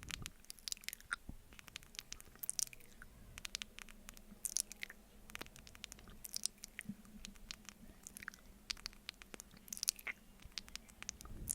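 Close-miked sticky mouth sounds of eating honey from a spoon: irregular wet clicks, smacks and licks, several a second.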